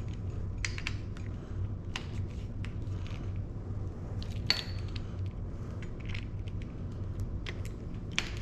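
Scattered light metallic clicks and clinks of an Allen wrench and bike parts being handled during assembly, over a steady low hum.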